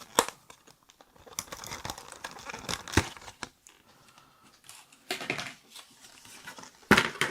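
Packaging of keyboard switches being torn and opened by hand: irregular crinkling and tearing with scattered sharp clicks, the sharpest just after the start, about three seconds in and near the end.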